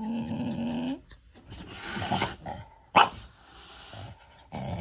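A pet's vocal calls: one held call at a steady pitch for about a second, then a run of short, rough calls, with one sharp, loud call about three seconds in.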